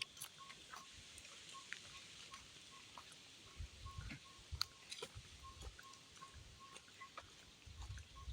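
A forest bird calling a faint, steady series of short, even pips, about two a second. Soft low thumps and small clicks come and go, loudest near the middle and at the end.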